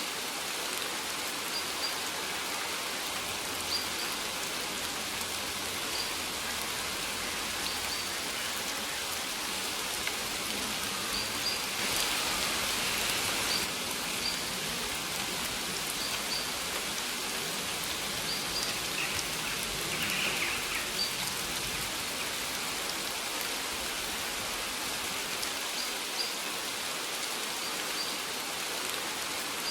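Steady rain falling on a surface, a little louder for a moment about twelve seconds in, with short faint high bird chirps now and then.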